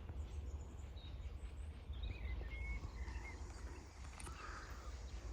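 Small birds chirping faintly, a few short calls and glides in the first few seconds, over a steady low rumble.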